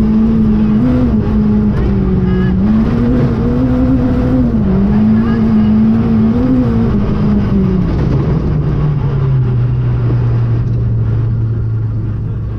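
Renault Clio III RS rally car's four-cylinder engine heard from inside the cabin, held at high revs with small rises and dips over a constant road-noise haze. About eight seconds in the revs fall to a lower, steady note that fades toward the end.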